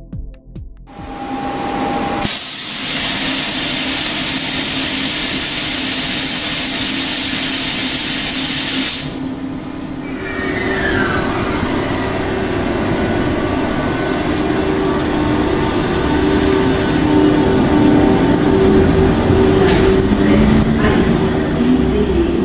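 Thalys high-speed train power car standing at the platform with its equipment running: a loud steady rushing hiss that cuts off suddenly about nine seconds in, leaving a lower hum with steady electrical whining tones.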